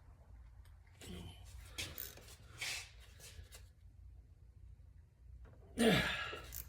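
Faint scraping and rubbing of hand tools against the motorcycle clutch centre while its small slotted screws are worked loose, with a louder short sound near the end that falls in pitch.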